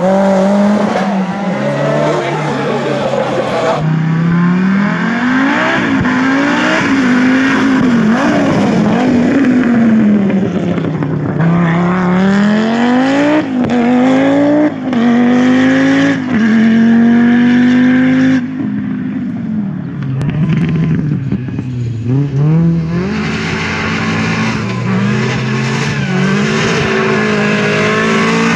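Rally car engines at hard throttle, their pitch repeatedly climbing and then dropping through gear changes and lifts. The sound changes abruptly about four seconds in and again at about eighteen seconds, as if cutting between different cars.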